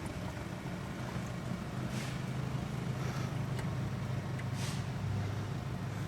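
A steady low machine hum, with two short hissing or scraping noises about two seconds in and just past the middle.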